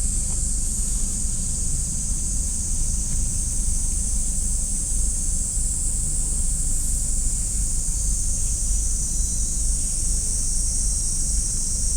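Steady high-pitched insect chorus over a constant low rumble.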